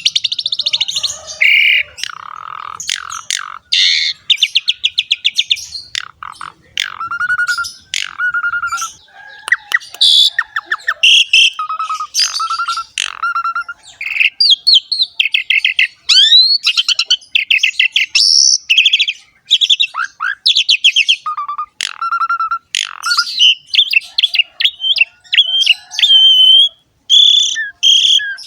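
Asian pied starling (jalak suren) singing vigorously. It gives a continuous, varied song of buzzy rapid rattles, chattering notes and a recurring clear whistle, broken by brief pauses between phrases.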